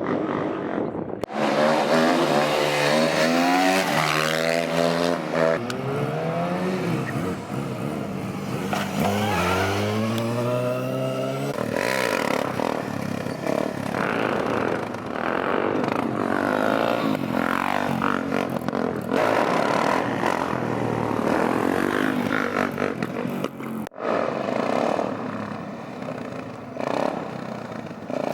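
Motorbike engines revving and accelerating: the engine note climbs in pitch a couple of seconds in and again around ten seconds in, with engine noise running on through the rest.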